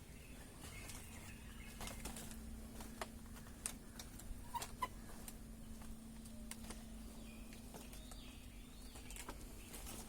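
Faint ambience of scattered light clicks and a few brief bird-like chirps over a steady low hum.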